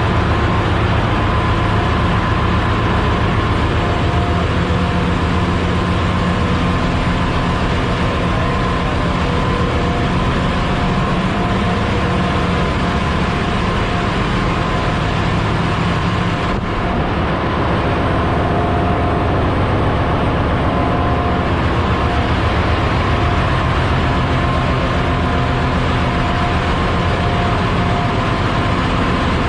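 Loud, steady drone of a ship's engine-room machinery running, with a dense low hum and several steady whining tones above it.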